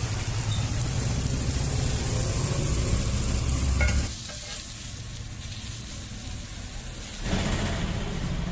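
Food sizzling and frying in oil on a flat iron tawa griddle, with stirring. A low rumble runs under it, drops away about four seconds in and comes back near the end.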